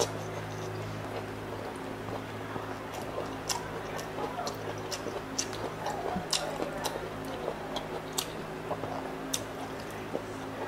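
Close-miked chewing of crispy pata (deep-fried pork leg) and lettuce: wet mouth smacks with short, sharp crunches and clicks at irregular intervals. A steady low hum sits underneath.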